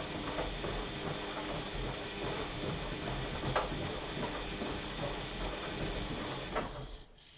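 Washing machine running, its motor and drum making a steady mechanical whirr with scattered clicks and ticks; the motor stops abruptly about seven seconds in.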